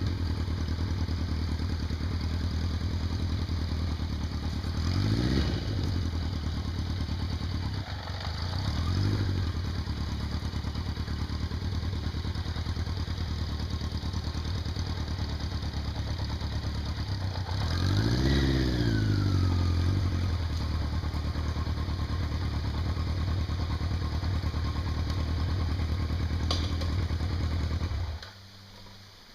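Vehicle engine running through a creek crossing, revving up and easing off three times. The engine sound cuts off about a second before the end.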